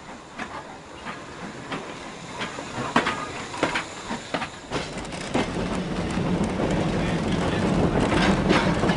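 Small industrial railway train on the move: wheels click and clank irregularly over the rail joints. About five seconds in, this gives way to a louder, steady rumble of running wheels as the train gathers speed.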